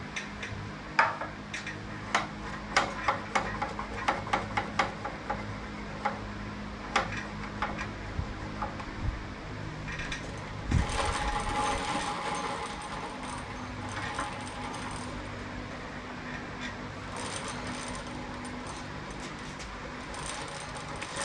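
Metal tools and parts being handled during go-kart work: about a dozen sharp clinks and knocks in the first half, then a thump and a stretch of rustling and scraping.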